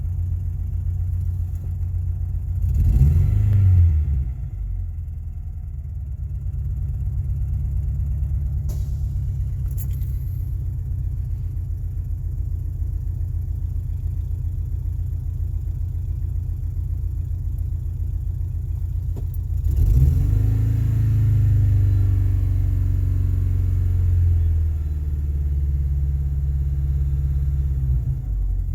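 Ford Ranger's 2.5 L Lima four-cylinder engine idling roughly at start-up. It is revved briefly about three seconds in, and again from about twenty seconds for several seconds, with the engine speed wavering before it settles back.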